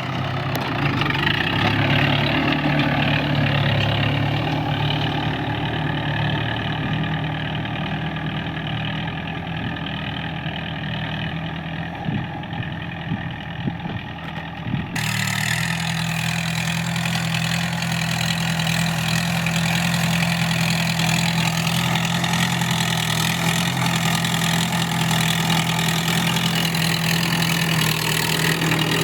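Mahindra Sarpanch tractor's diesel engine running steadily while pulling a seed drill. The sound changes abruptly about halfway through.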